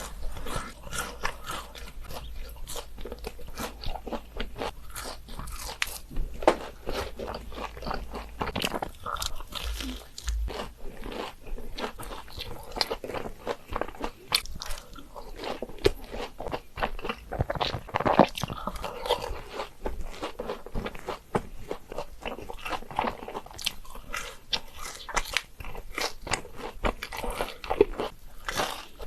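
A person biting and chewing crunchy food, a dense, unbroken run of crisp crunches and crackles.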